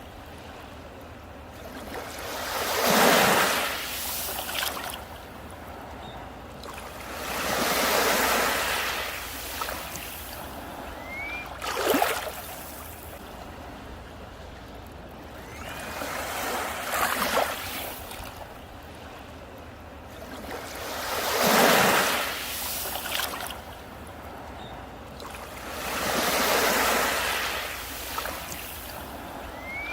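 Sea waves breaking and washing up a beach, about six waves in a row, one every four to five seconds, with a steady surf hiss between them.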